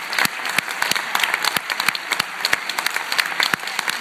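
Audience applauding: many hands clapping at once in a dense, uneven patter.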